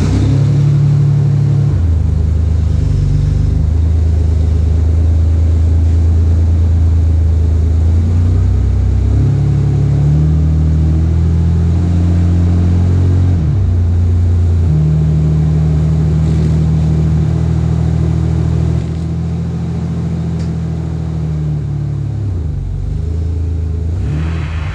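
Car engine running close by, its low hum stepping up and down in pitch several times as the revs change, a little quieter over the last few seconds.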